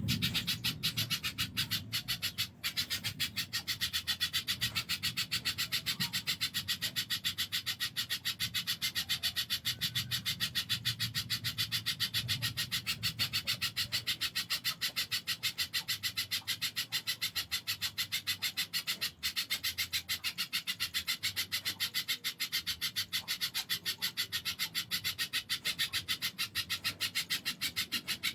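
Spiderhunter (pijantung) calling in a long, fast, even series of sharp, rasping notes, a song that bird keepers liken to the tengkek buto kingfisher's call.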